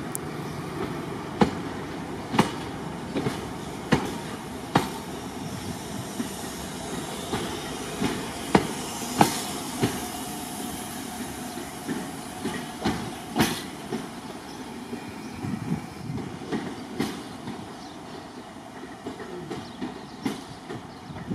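Passenger coaches of the Royal Scotsman train rolling past and away, with a steady rumble and sharp wheel clicks over the rail joints about once a second. The clicks thin out and the train grows fainter near the end.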